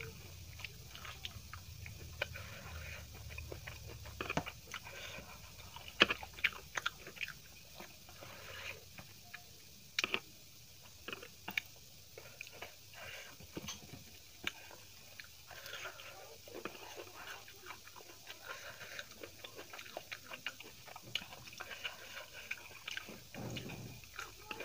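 Close-up eating sounds of a person chewing and biting chicken biryani, with scattered sharp clicks and crackles, the loudest about 6 and 10 seconds in.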